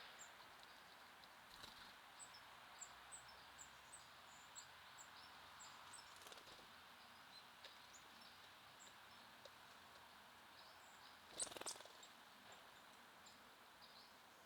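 Small songbirds giving many short, high, faint chirps over a soft outdoor hiss, with a brief louder rustle about eleven seconds in.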